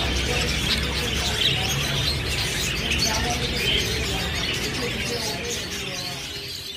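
A flock of budgerigars chattering, a dense steady twittering that fades out near the end.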